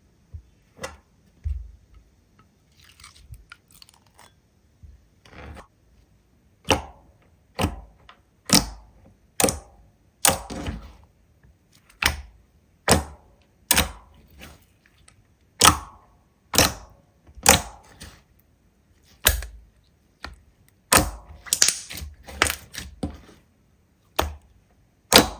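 Slime being worked by hand, giving a string of sharp pops and crackles, roughly one a second, with fainter crackling between them.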